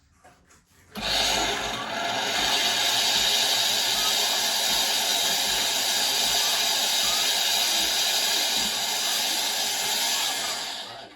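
Automatic coffee machine hissing steam through its milk system, starting about a second in and cutting off just before the end, with faint low pump pulses under it. No milk is drawn, which the owner puts down to the milk straw being too short.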